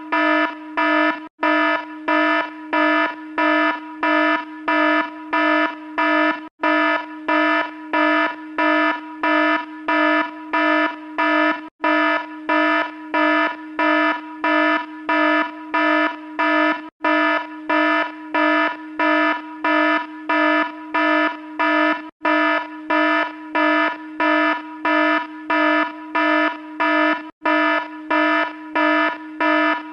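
Electronic alarm sound effect: a steady, buzzy pitched tone beeping rapidly, a few beeps a second, in an unbroken run. It cuts out for an instant about every five seconds, where the looped clip restarts.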